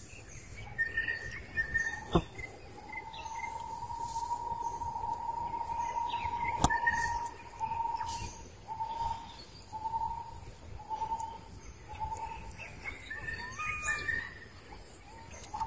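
Wild birds calling: one whistled note held steady for about five seconds, then repeated about once a second, with short higher chirps over it. Two sharp clicks, about two and seven seconds in.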